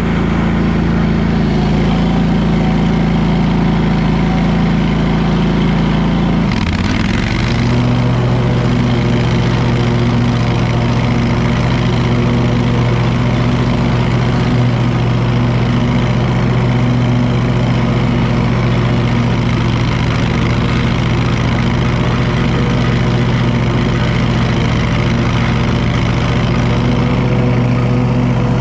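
Lawn mower engine running steadily under load. About seven seconds in, its pitch dips briefly with a short rushing noise, then it settles into a steady lower hum.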